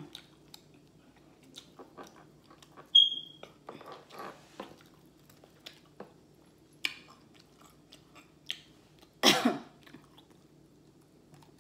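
Close-up mouth sounds of a person eating fried chicken: scattered wet clicks and lip smacks, with a short high squeak about three seconds in and a louder burst a little after nine seconds.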